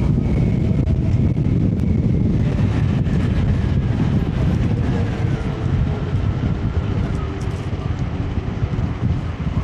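Steady low rumble of wind on the microphone of a riding electric scooter, with a faint whine that slowly falls in pitch.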